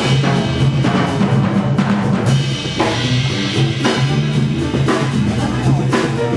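Jazz orchestra (big band) playing an instrumental passage, with the drum kit prominent over moving bass notes and the ensemble, and regular cymbal and drum strokes throughout.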